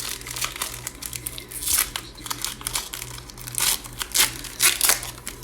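Crinkling and rustling as trading cards and their plastic packaging are handled, in a run of short, crisp bursts, the loudest a few in the second half.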